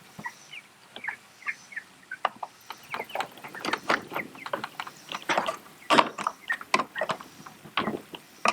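Young Cornish cross broiler chicks peeping, with scattered sharp knocks and clatter from handling equipment, the loudest knock about six seconds in.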